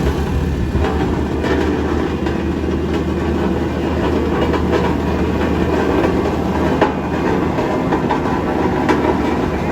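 Heavy diesel vehicle engine running loud and steady under load, with scattered light clicks and knocks over the rumble.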